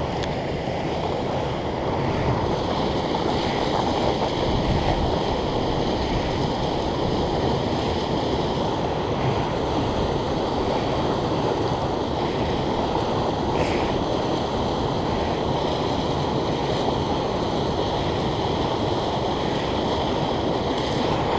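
River rapids rushing steadily, a continuous wash of water noise.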